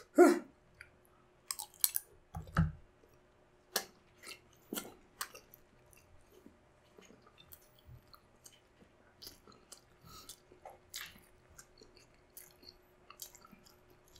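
Close-miked chewing of a mouthful of balut (boiled fertilised duck egg) heaped with chopped chili, with small wet mouth clicks and smacks scattered throughout. A loud mouth sound comes right at the start as the spoonful goes in, and a dull thump follows a couple of seconds later.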